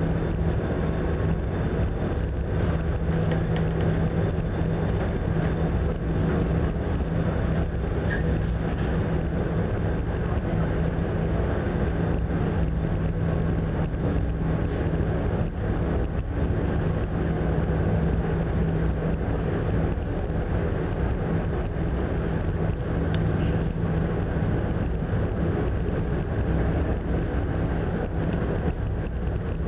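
Steady drone of a large passenger ferry's engines and machinery: a constant low hum over a rushing noise, unchanging throughout.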